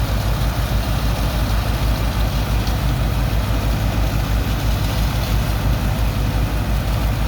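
Heavy diesel engine of a sand-unloading dredger pump running steadily, with a fast low throb and a rushing noise over it.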